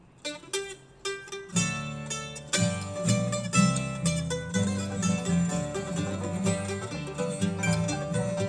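Bluegrass band playing the instrumental intro to a country song on acoustic plucked strings. It opens with a few single plucked notes, and the full band comes in about one and a half seconds in.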